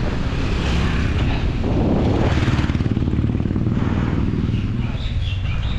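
Mountain bike riding fast down a rough dirt trail: a steady loud rumble of tyres and wind on the microphone, with the bike rattling and chattering over the ground.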